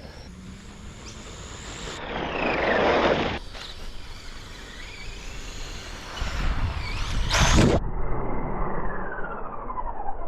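Schumacher Bosscat electric RC off-road buggies racing on a dirt track: motor whine rising and falling in pitch as they accelerate, pass and brake, with a louder pass about two seconds in and another near three-quarters through, over tyre and dirt noise.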